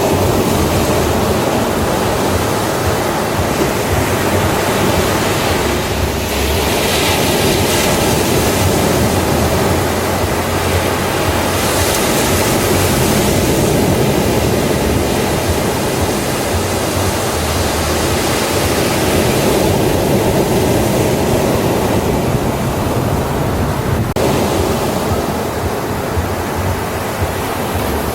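Ocean waves breaking on a beach, a continuous rushing wash with swells of brighter hiss as waves break, about 6 s in and again about 12 s in.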